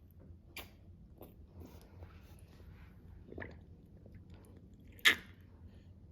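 Small plastic handling noises from the toy truck and the water squeezer: scattered soft clicks and squishes, with one sharper click about five seconds in.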